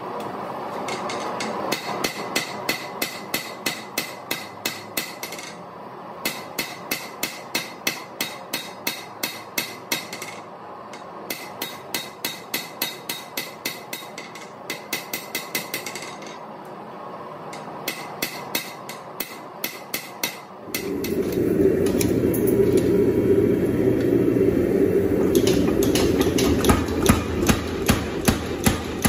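Hand hammer striking a hot 1/2-inch square steel bar on an anvil, about three blows a second, in runs of several seconds with short pauses. About two-thirds of the way through, a loud steady rushing noise starts and the hammering continues over it.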